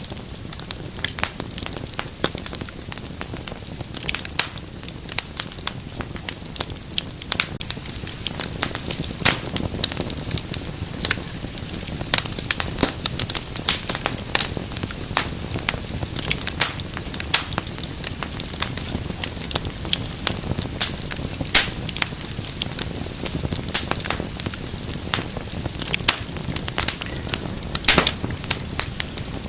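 Wood fire crackling, with dense, irregular sharp pops and snaps over a soft, steady rush of flames.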